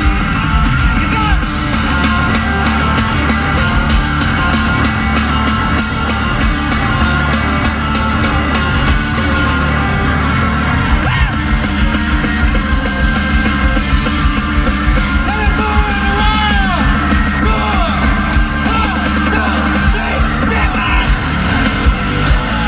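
Live rock band playing loud, amplified music with vocals over it.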